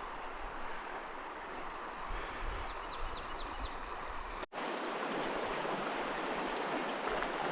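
Steady rush of a small mountain stream, with wind rumbling on the microphone during the first half. The sound breaks off for an instant just past halfway, then the water carries on.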